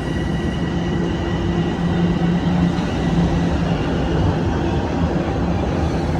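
TTC Line 1 subway train running, with a loud steady rumble and low hum. A high whine fades out about halfway through.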